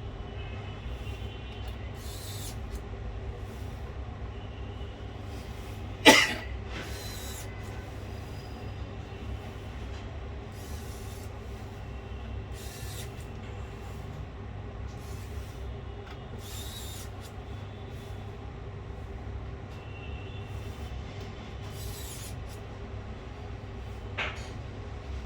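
Steady low electrical hum with scattered light handling clicks and rustles, and one sharp click about six seconds in.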